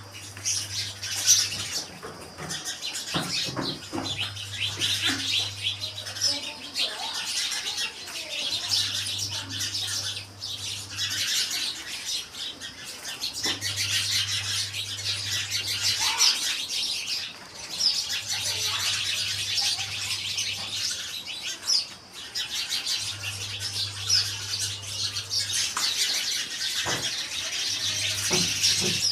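A group of small birds chirping and twittering rapidly and without let-up, with a few brief lulls.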